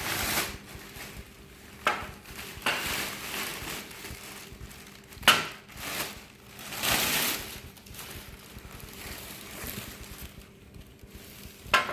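Packaging rustling and crinkling, with a few sharp knocks and clinks, as the washing machine's steel stand is handled and unpacked.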